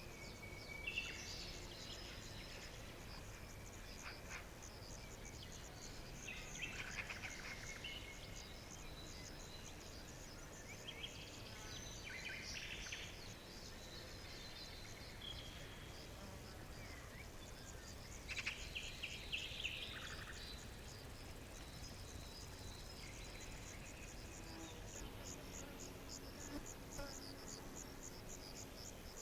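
Nature ambience of crickets trilling in a steady, fast-pulsing chorus, with small birds chirping in short runs now and then, loudest about 18 to 20 seconds in.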